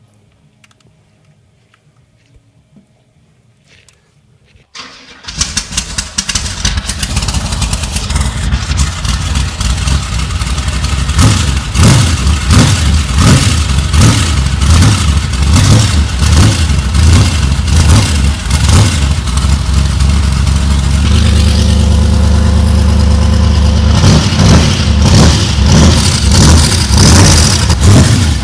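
Near silence, then about five seconds in the trike's V8 cranks, fires and starts, running on freshly cleaned fuel injectors. It is revved repeatedly in quick blips, then settles into a steadier, deeper run near the end.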